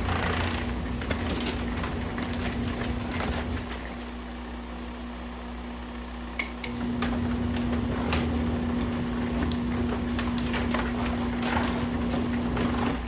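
Small RV washing machine running its wash cycle with hot water: a steady motor hum with churning water, easing off about four seconds in and starting up again about three seconds later, with a click in the pause.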